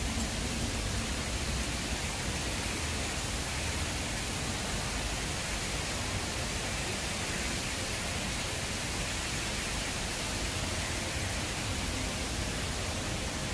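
Steady, even hiss of light rain falling, with a low rumble underneath.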